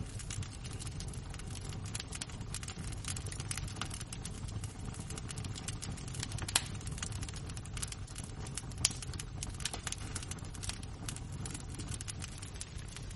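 Embers and a wood fire crackling, with dense small ticks and pops over a low steady roar, and a couple of louder snaps, one about halfway through and one a couple of seconds later.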